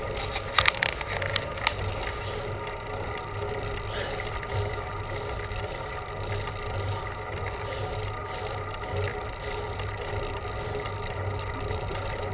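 A bicycle being ridden on a road: steady riding noise with a low hum, and a few sharp clicks and knocks in the first couple of seconds.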